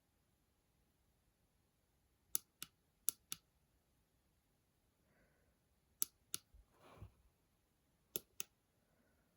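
Plastic push button on an LED string-light controller box clicking as it is pressed and released, four times in paired clicks, each press stepping the lights to their next function. Faint handling rustle between presses.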